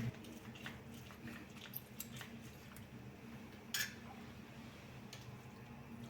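Light, scattered clicks and clinks of kitchenware being handled, the loudest clink about two-thirds of the way through, over a faint steady low hum.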